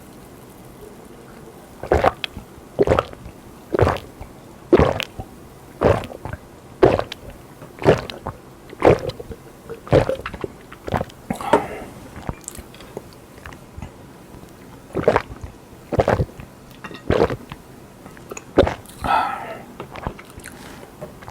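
Close-miked eating sounds from a mukbang: wet chewing strokes about once a second, pausing for a couple of seconds near the end.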